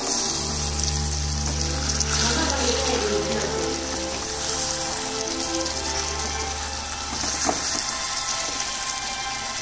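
Chicken curry sizzling and frying in a hot kadai as it is stirred, with one short knock late on, under background music of held notes.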